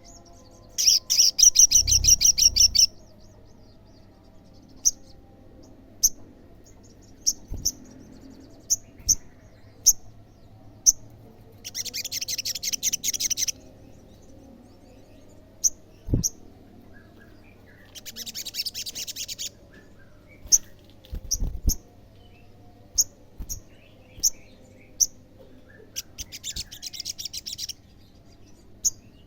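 Olive-backed sunbird singing: four rapid, high trills of about two seconds each, several seconds apart, with sharp single chips in between. A few dull knocks are heard as well.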